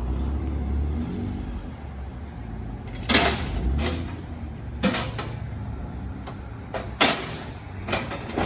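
A low rumble, then four sharp knocks spaced about a second or two apart: workshop noise around a car being worked on.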